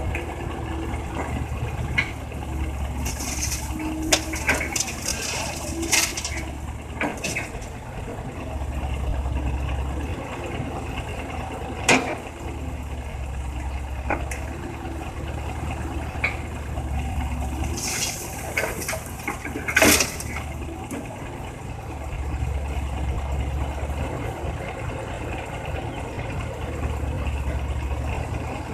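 Komatsu excavator's diesel engine running, its low drone swelling and easing as the machine works, with scattered clanks and short rushes of noise from loading crushed rock into a dump truck. The sharpest clanks come a little under halfway through and about two-thirds through.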